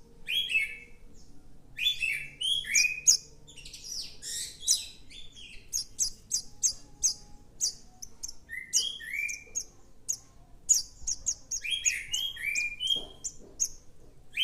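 Young weaver bird chirping insistently while being hand-fed: begging calls in bursts of rapid high chirps mixed with lower, downward-slurring notes.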